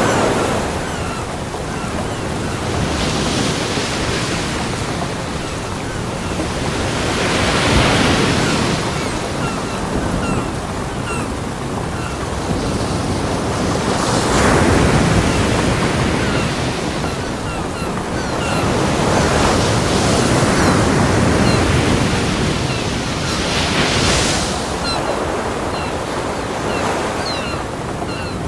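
Ocean surf: waves breaking on a beach one after another, swelling up about every five seconds over a steady wash of water.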